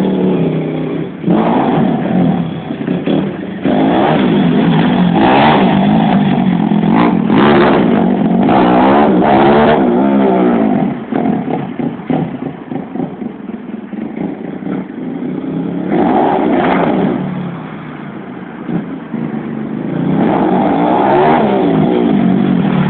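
Pit bike engine revving up and down as it is ridden, its pitch rising and falling. It swells loud and fades several times as the bike comes near and moves away.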